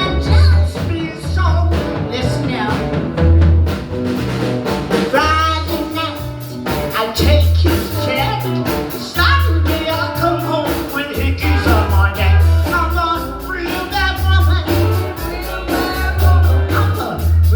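Live blues band playing a song, with a pulsing bass beat and a melody line that bends in pitch over the top.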